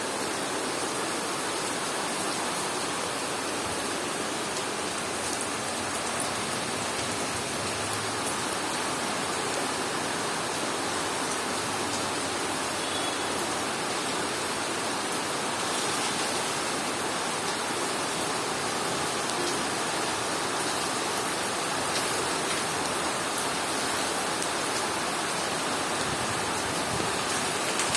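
Heavy rain falling steadily: a continuous even hiss with scattered sharper taps of drops.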